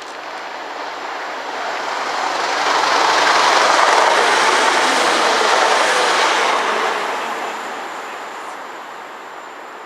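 A train passing by, its wheel and rail noise swelling to a peak in the middle and then fading away as it recedes.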